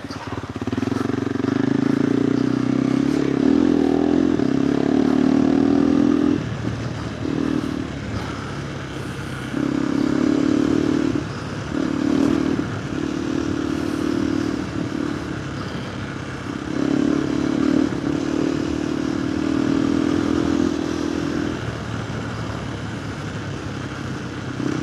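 KTM 390 Adventure R's single-cylinder engine, breathing through a Norifumi Whoops slip-on exhaust, pulling under throttle while being ridden. It swells and drops back several times as the throttle is opened and rolled off, with longer pulls at the start and in the middle.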